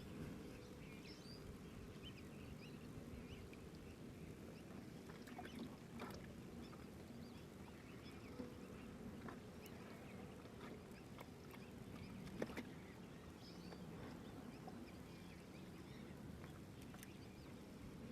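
Faint riverside ambience: a steady low rumble of water and air, with scattered small bird chirps and a few light clicks, one near the middle and one about two-thirds of the way through.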